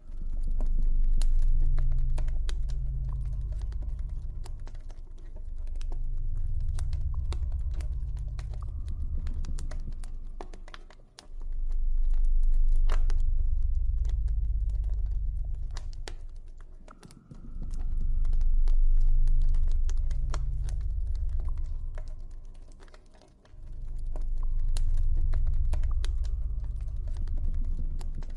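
Campfire crackling with scattered sharp pops and snaps, over deep, soft ambient music drones that swell and fade in slow waves every five or six seconds.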